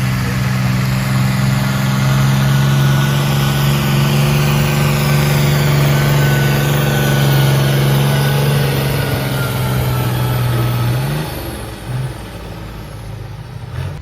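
Competition pulling tractor's engine running hard at a steady high pitch under load, then easing off and dropping away about three-quarters of the way through.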